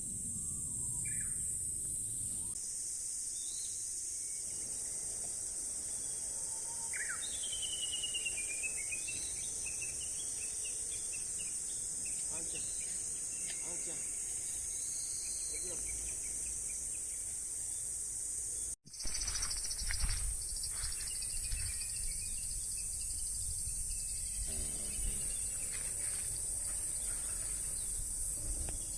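Outdoor summer ambience: a steady high-pitched insect chorus, with a few short falling bird calls in the first half. After a brief break about two-thirds of the way in, a low rumble and scattered ticks join the insects.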